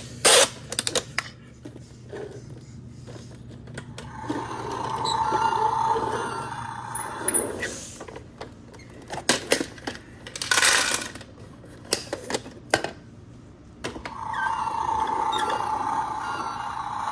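Toy garbage truck being worked: sharp plastic clicks and clatter. A small electric motor whines for about two seconds a few seconds in and starts again near the end.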